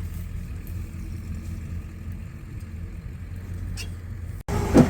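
Motor vehicle engine running at idle, a steady low rumble. Near the end the sound drops out for an instant and a short, loud sound follows.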